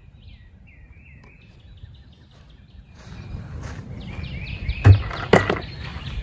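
Small birds chirping in quick runs of short repeated notes, with footsteps on a dirt infield coming in about three seconds in. Near the end, two sharp thuds as a five-gallon plastic bucket is set down on the dirt.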